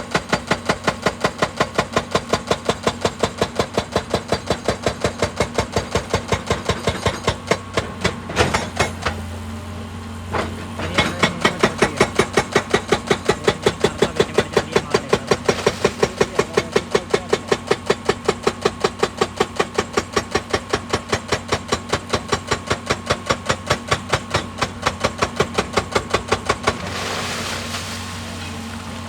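Excavator-mounted hydraulic rock breaker hammering rock in a fast, even train of blows over the running diesel engine. The blows pause briefly about a third of the way in, then stop near the end, leaving the engine running.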